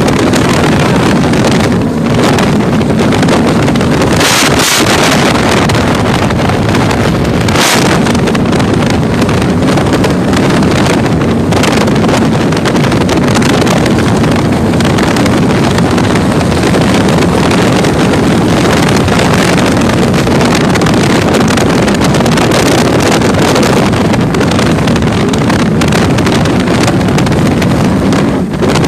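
30-foot catamaran powerboat underway in rough seas: the engines run steadily under heavy wind buffeting on the microphone, with a couple of brief louder surges of noise about four and eight seconds in.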